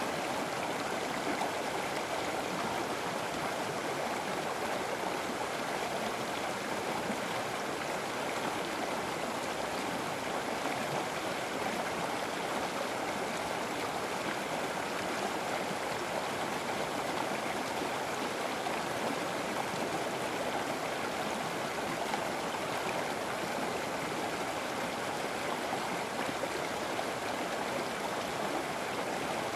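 River water flowing in a steady, even rush with no change or breaks.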